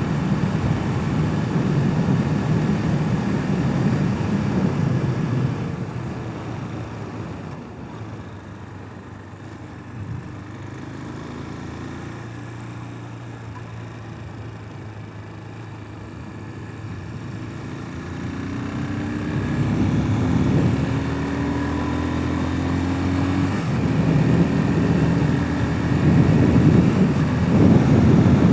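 A Hawk 250 dirt bike riding with wind rushing over the microphone. The bike slows and runs at low revs with a steady low hum for several seconds, then pulls away with its engine note rising, and the wind noise grows loud again near the end.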